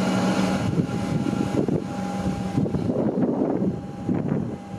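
Comeng electric suburban train pulling out of the station, its rumble fading as it moves away. A steady low hum stops under a second in.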